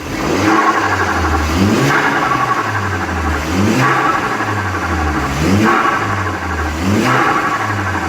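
Volkswagen Golf 5 GTI fitted with a CDL 2.0-litre turbocharged four-cylinder, revved four times: each time the pitch climbs quickly and then drops back to a steady lower note.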